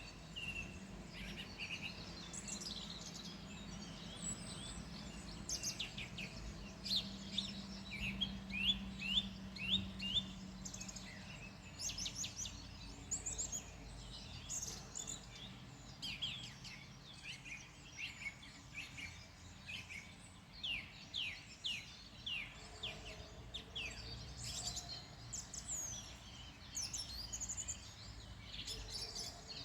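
Several small songbirds calling and singing in the open, a steady run of quick, high chirps and short whistled phrases that overlap one another. A faint low hum sits underneath for the first third.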